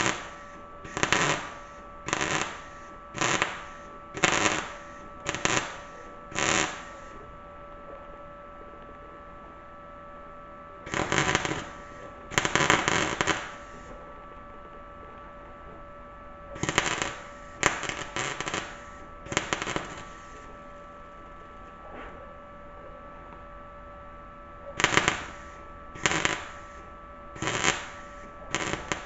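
MIG welder (Arccaptain MIG200) stitch-welding thin sheet-metal rust patches: short crackling arc bursts of about half a second, in runs of four to seven roughly a second apart, with two longer bursts in the middle. A steady electrical hum runs underneath.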